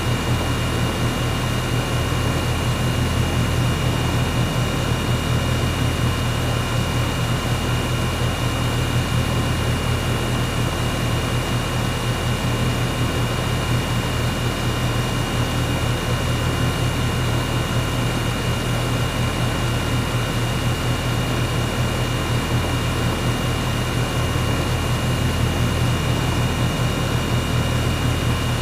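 Air conditioner running steadily: a low hum under a constant rush of air, with a thin steady high tone on top.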